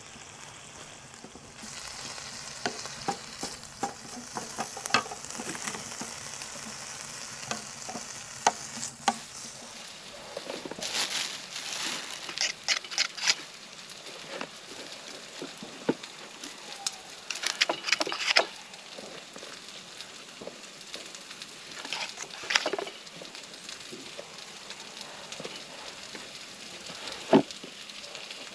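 Bacon and eggs sizzling in pans on a wood-burning stove, with scattered crackles. About ten seconds in the sound changes to a knife scraping butter across toast in several short bursts, with one sharp click near the end.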